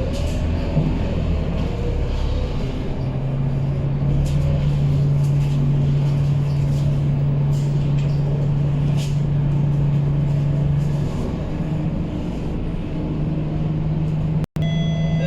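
Scania K230UB bus's five-cylinder diesel engine running steadily, a low drone that holds one pitch for several seconds and then settles a little higher, with faint short hisses over it. The sound cuts out for a moment near the end.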